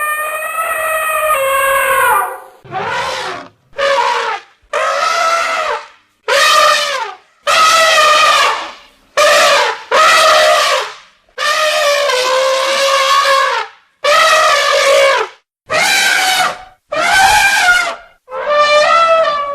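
Elephants trumpeting: a long series of a dozen or so loud, brassy calls, each lasting about a second and divided by short silent gaps.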